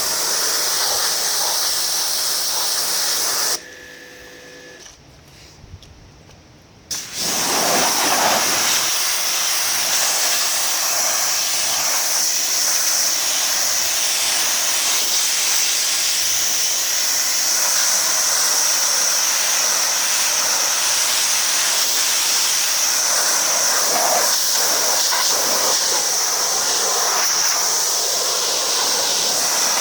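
Steady hiss of an electric pressure washer's high-pressure water jet spraying. About three and a half seconds in the spray stops, and it starts again about three seconds later.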